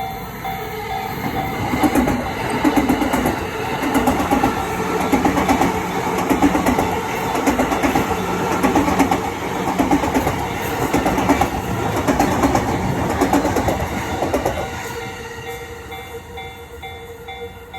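JR East E235 series electric train passing over a level crossing, its wheels clattering in a steady rhythm over the rail joints, then fading after about fifteen seconds. A Japanese level crossing warning bell rings with a rapid repeating ding, heard plainly before the train gets loud and again as it moves off.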